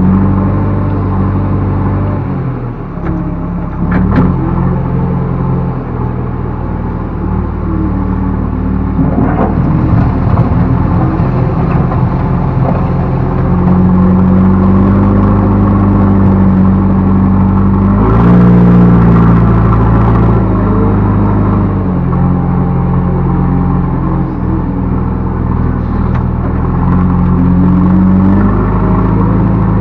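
Backhoe loader's diesel engine running and revving up and down as the machine works, the pitch rising and falling under hydraulic load, with a few sharp metallic knocks.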